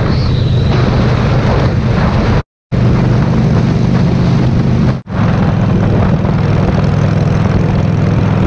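Harley-Davidson V-twin motorcycle engine running steadily at highway cruising speed, heard from the rider's handlebar camera with wind rushing over the microphone. The sound cuts out for a moment about two and a half seconds in and dips again briefly about five seconds in.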